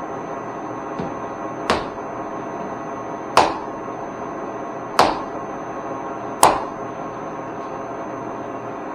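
Rubber mallet whacking the Cincinnati milling machine's 90° overarm knuckle to seat it against its rubber seal: a light tap, then four sharp blows about a second and a half apart. A steady hum runs underneath.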